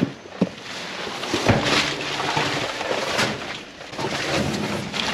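Rummaging through discarded boxes of cabbage in a dumpster: a few knocks early on, then a steady rustling and crackling of produce and packaging being moved about.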